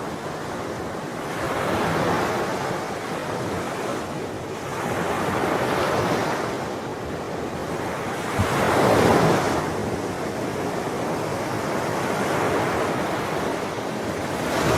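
Ocean waves breaking on a shore, the surf swelling and easing every few seconds, with the loudest wave a little past the middle.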